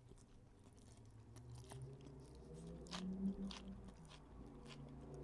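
A man chewing takeout food close to the microphone: faint scattered mouth clicks and crunches, with a low hum building in the second half.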